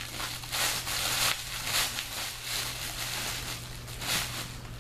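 Crinkly plastic rustling of a Blizzard heat blanket being handled and wrapped around a body, in irregular swells, over a steady low hum.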